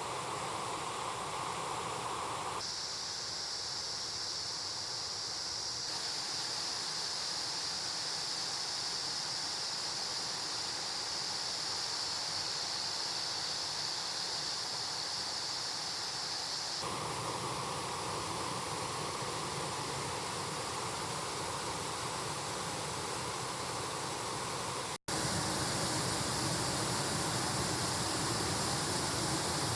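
Rushing mountain stream water, a steady even rush. Its tone changes abruptly about 3 and 17 seconds in, with a high hiss in between, and the sound drops out for an instant about 25 seconds in.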